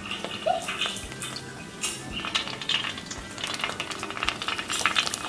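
Pani puri (golgappa) discs deep-frying in hot oil with a crackling sizzle, while a perforated metal spoon stirs and taps against the pan as they are turned to puff up.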